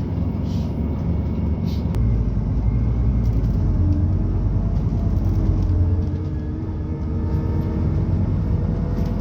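Scania Citywide LFA city bus's Scania OC09 natural-gas engine and drivetrain, heard from inside the cabin while on the move. A low rumble grows louder about two seconds in, with a faint whine that rises slightly in pitch, then eases back near the end.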